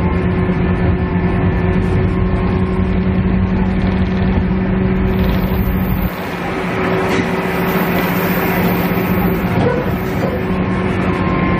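Onboard running sound of a KiHa E130 diesel railcar: the diesel engine drones steadily under the rolling noise of the wheels on the rails. The engine's low drone falls away suddenly about six seconds in, leaving the rail noise, and comes back near the end.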